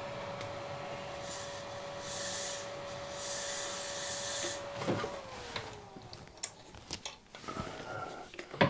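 Milling machine spindle running with a steady whine and some hissy cutting noise, then switched off about five seconds in, its whine falling as it spins down. Scattered clicks and metal knocks follow as the tooling is handled, with a sharp knock near the end.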